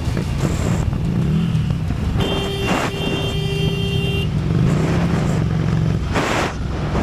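Vehicle engine running in road traffic, with a steady higher tone held for about two seconds starting roughly two seconds in.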